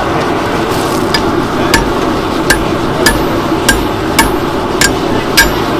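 Hand hammer striking hot steel on an anvil, about eight even blows a little under two a second starting about a second in, some with a short metallic ring, as the blank is drawn out into a blade. A steady background noise runs beneath the blows.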